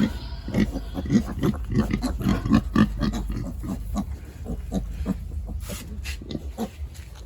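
Pig grunting over and over, several short low grunts a second, thinning out towards the end.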